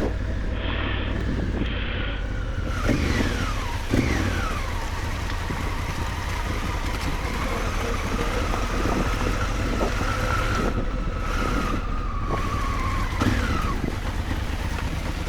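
Maxi-enduro motorcycle engine under way: its pitch drops twice in the first four seconds, then climbs and holds before falling away near the end. Wind rumbles steadily on the microphone throughout.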